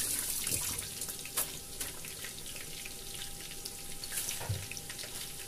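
Egg-and-cornflour-coated chicken pieces frying in hot oil in a wok: a steady sizzle with scattered crackles and pops.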